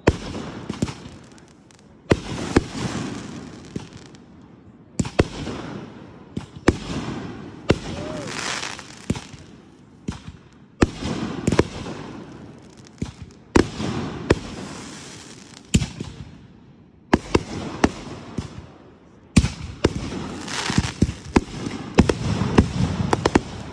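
Aerial fireworks going off in quick succession: sharp bangs every second or two, each followed by crackling and a fading rumble.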